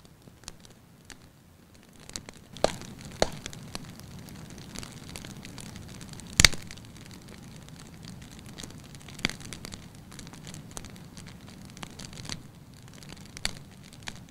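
Wood fire in a fireplace crackling, with a steady low hiss and sharp pops every second or few; the loudest pop comes about halfway through.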